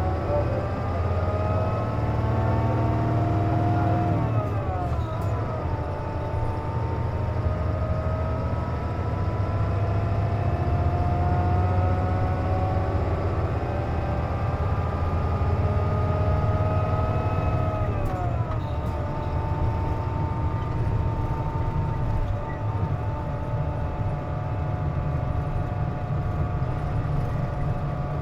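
Interior sound of a Hino KC-JP250NTN city bus under way: a steady low rumble and a diesel engine note whose pitch climbs as the bus accelerates, dropping sharply at gear changes about 4 seconds and 18 seconds in. This bus is known for an unusual noise while its air conditioning is running.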